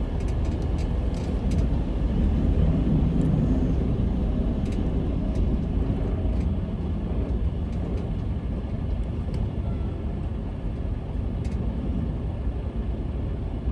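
Truck cab interior while driving slowly: steady low diesel engine and road rumble, with occasional light rattles.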